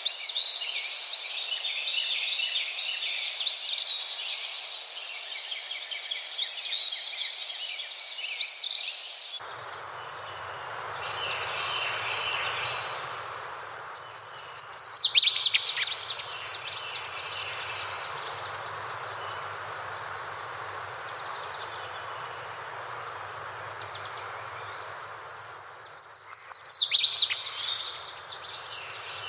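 Birds singing and chirping over a steady rush of running water. About nine seconds in the recording changes, and twice a bird gives a loud, fast trill that falls in pitch.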